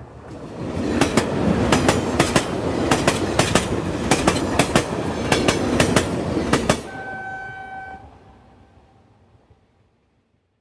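Train running on rails, a rumble with rapid, irregular clicks of the wheels over rail joints. About seven seconds in the clatter stops and a short, steady horn blast sounds, then everything fades away.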